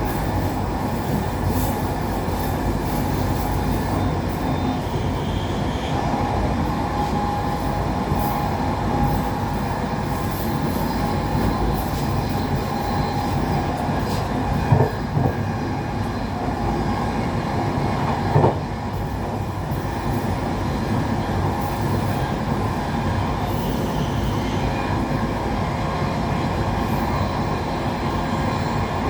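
Passenger train running along the line, heard from on board: a steady rumble of wheels on track with a faint whine over it, and two short knocks about halfway through.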